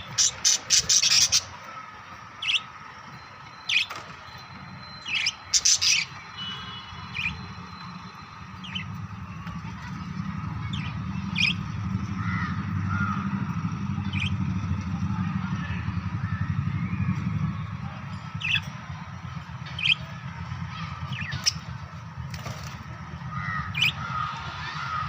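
Pet lovebirds squawking and chirping: quick bursts of shrill calls at the start and again about five seconds in, then single sharp chirps every second or two. A steady low hum runs underneath.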